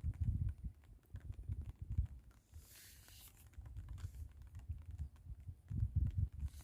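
Wind buffeting the microphone in uneven low rumbling gusts, easing for a couple of seconds in the middle, with a brief hiss about two and a half seconds in.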